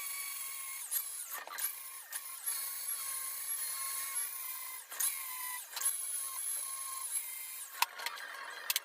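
A small high-speed power tool running with a steady high-pitched whine, dipping briefly about five times as it is eased off or loaded, with a couple of sharp clicks near the end.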